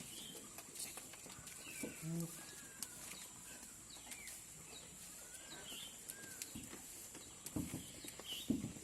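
Goats bleating now and then, with small birds chirping throughout.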